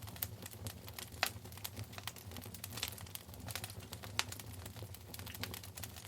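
Wood fire burning in a fireplace, crackling with frequent irregular pops and snaps over a steady low rumble; the sharpest pops come about a second in and about four seconds in.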